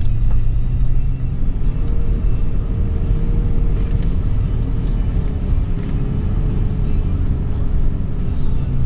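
2013 Toyota 4Runner's 4.0-litre V6 driving on sand dunes: a steady low rumble of engine and tyres, with a faint steady tone coming in about two seconds in.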